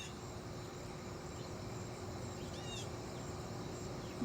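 A few short bird chirps over steady outdoor background noise, the clearest a curved pair of chirps about two and a half seconds in.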